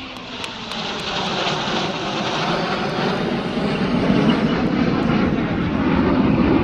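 Jet formation passing overhead: a rising rush of jet engine noise that grows steadily louder and deepens in pitch during the second half as the aircraft go by.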